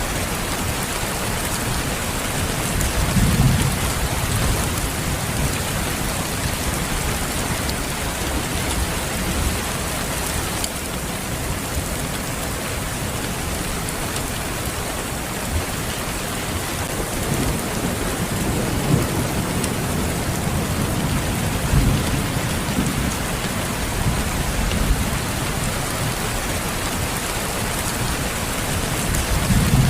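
Steady rain hissing and pattering, with low rumbles of thunder swelling up several times.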